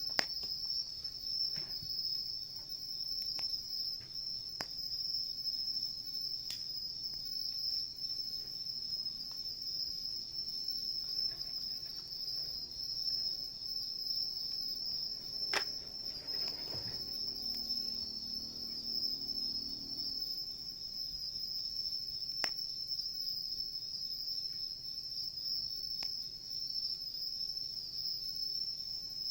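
Steady, high-pitched chorus of insects chirping, with a few sharp pops from a wood campfire crackling every few seconds.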